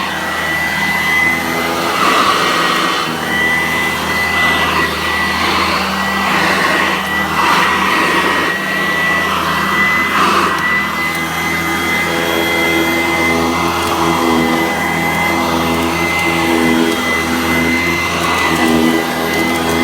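Vacuum cleaner running continuously with a steady high whine, its rushing air swelling and fading again and again as the head is worked back and forth.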